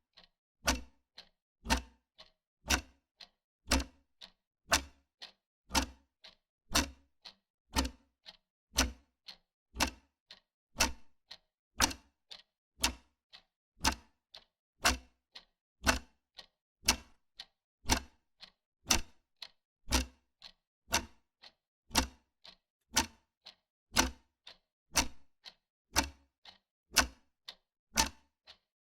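Wall clock ticking steadily, about two ticks a second, alternating a stronger and a weaker tick in a tick-tock rhythm.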